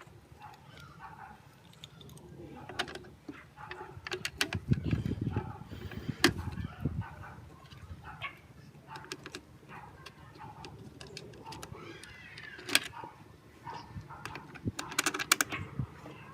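Scattered clicks and clinks, like small metal parts being handled, with a low rumbling stretch about five seconds in.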